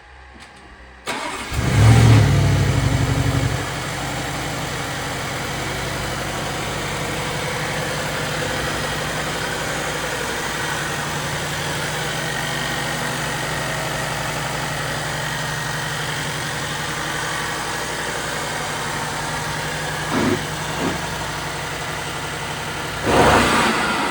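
2024 Audi RS6 Avant Performance's twin-turbo V8 cranking and firing about a second in, flaring loudly on the cold start, then settling into a steady idle. It is revved briefly near the end.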